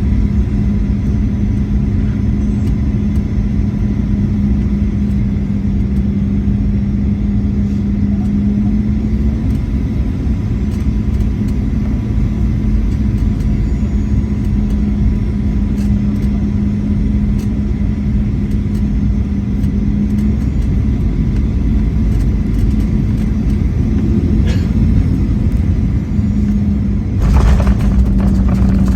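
Boeing 737-800 cabin noise: a steady low drone and rumble from the jet engines and airflow, with a held engine tone. Near the end the sound suddenly gets louder and rushier.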